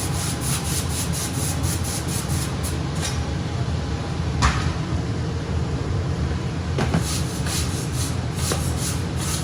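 Scraping and rubbing as the cells of an electronic air filter are handled and slid in the metal housing of a running furnace, with a sharp knock about four and a half seconds in. The furnace blower runs steadily underneath.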